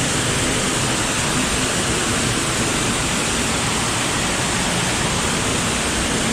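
Loud, steady rush of falling and flowing water in a cave stream passage, a fast-running underground stream and waterfall.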